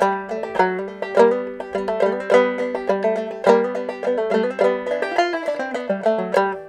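Five-string banjo played clawhammer style in a Sawmill-like gEADE tuning, picking the C part of an old-time tune in G as a steady, even run of plucked notes. The notes die away near the end.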